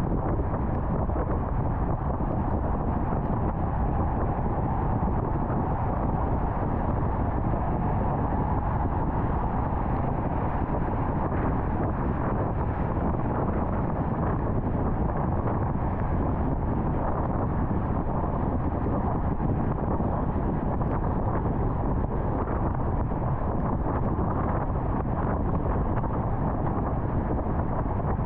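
Steady road noise of a car travelling at highway speed: an even rush of tyre and wind noise that holds constant throughout.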